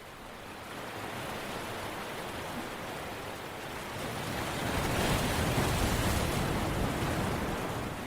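Steady rushing water noise that swells to a peak about five seconds in and then eases off.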